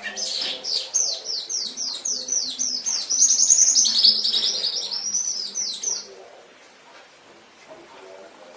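Domestic canary singing: a run of quickly repeated falling notes, about four a second, runs into a high rolling trill, and the song stops about six seconds in.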